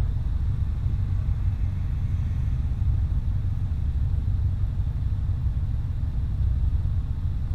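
2004 Subaru WRX's turbocharged flat-four engine running at idle, a steady low rumble heard from inside the cabin.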